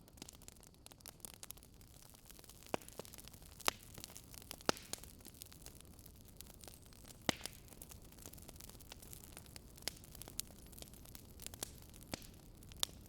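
Wood fire crackling: a steady faint hiss with irregular sharp pops and snaps, about ten of them scattered through.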